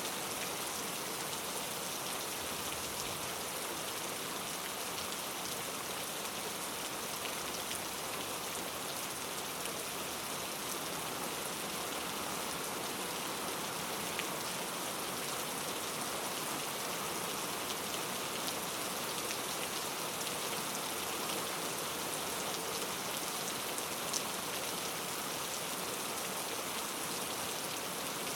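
Steady, even rainforest rain with no let-up, with a single sharper drop standing out near the end.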